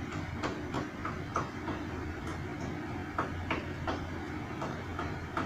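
Car running, heard from inside the cabin: a steady low hum with irregular light clicks and knocks.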